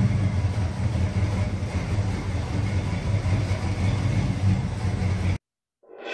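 1966 Ford Mustang engine idling steadily, freshly started and still cold; the rod knock the owner knows it has is said not to show until it warms up. The sound cuts off suddenly a little after five seconds.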